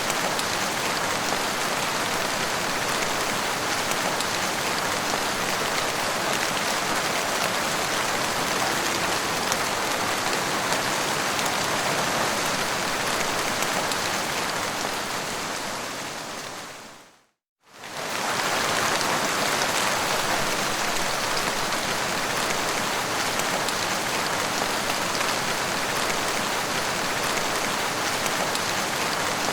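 Steady rain falling on a surface, a dense even patter. About seventeen seconds in it fades out to silence for a moment, then fades straight back in.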